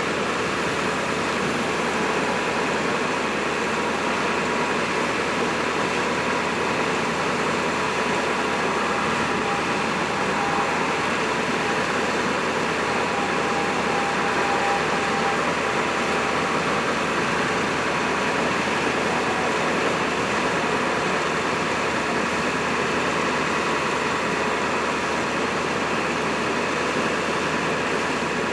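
Ford F550 bucket truck's engine running steadily with the PTO engaged, driving the hydraulic pump for the Elliott boom while the boom is worked from the pedestal controls. A faint higher tone comes in for several seconds in the middle.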